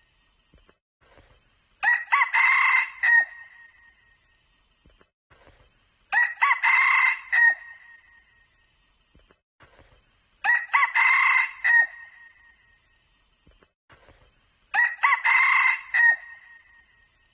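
Red junglefowl cock crowing four times at even intervals, about every four seconds, each crow a short, clear, ringing call that breaks off abruptly.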